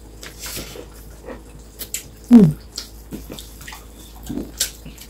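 Close-miked eating sounds: wet chewing and mouth clicks from people eating rice with their hands. A brief falling vocal sound comes about two seconds in.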